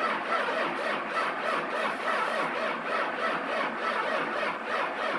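Starter motor cranking a diesel engine over steadily at about four compression strokes a second, without the engine firing.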